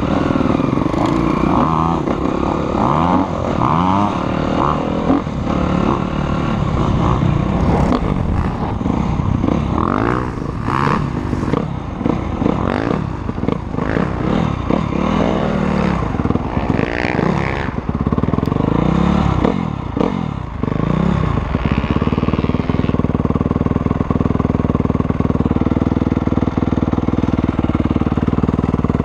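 Motocross bike engine revving, its pitch rising and falling over and over as it accelerates and eases off, then settling into a steady, even engine note about three quarters of the way through.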